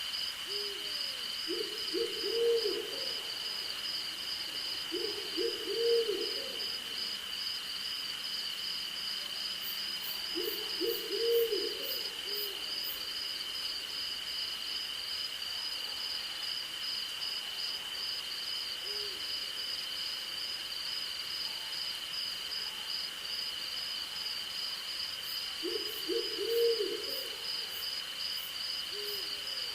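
An owl hooting in short low phrases of a few notes each, four times, with a fainter phrase between. Under the hoots runs a steady high chorus of crickets with a pulsing insect trill above it.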